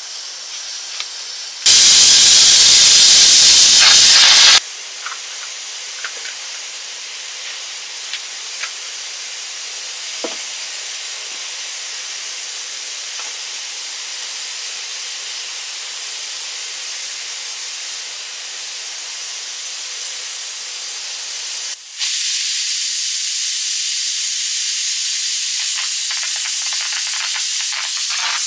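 Food sizzling in hot oil in a pan, a steady hiss with small scattered pops. A much louder sizzle starts and stops abruptly near the start, and the sizzle steps up again about two-thirds of the way through.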